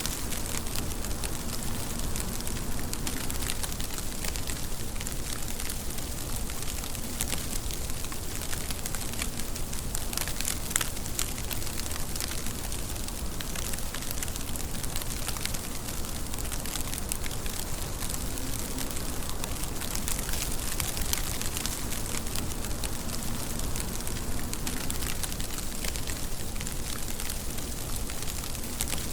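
Steady rain, a dense even hiss with many fine drop ticks throughout.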